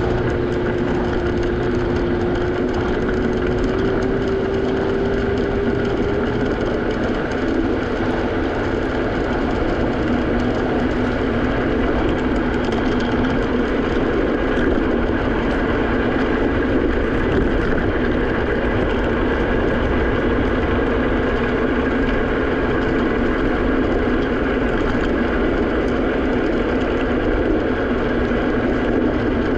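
Steady wind and road rumble from riding an electric stand-up scooter, with a steady whine that dips and then rises slightly over the first several seconds before fading out.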